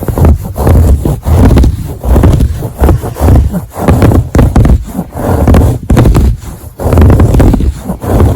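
Scratching on fabric or carpet pile in quick repeated strokes, about two a second, with a short pause near the end.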